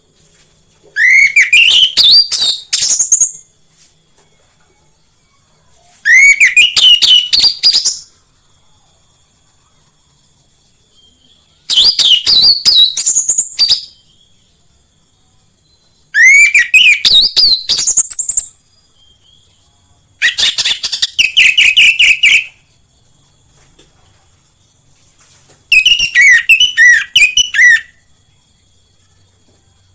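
Orange-headed thrush (anis merah) singing: six loud phrases of about two seconds each, four to five seconds apart, each a quick run of clear notes sweeping upward in pitch, some ending in rapidly repeated notes. A faint steady high hiss lies underneath.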